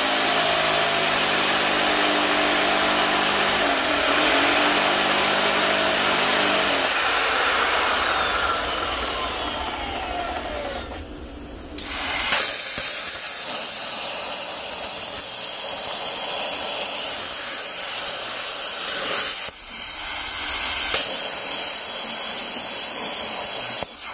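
Angle grinder cutting steel leaf spring. About seven seconds in, the disc winds down with a falling whine. After a short pause near eleven seconds it starts again and cuts with a steady hiss.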